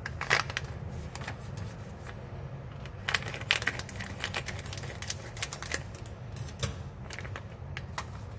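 Plastic packaging and parts of a self-heating rice pot being handled: scattered clicks, taps and crinkles in bursts, over a steady low hum.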